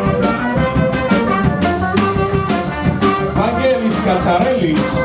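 Live swing band playing, with brass horns holding and sliding notes over a steady drum beat.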